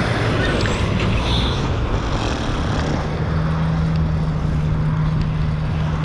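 Street traffic noise with wind rumble on the microphone of a moving bike. About three seconds in, a steady low hum from a motor vehicle's engine comes in and holds.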